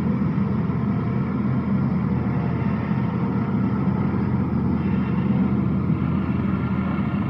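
Tractor engine running steadily under constant load, a low, even drone.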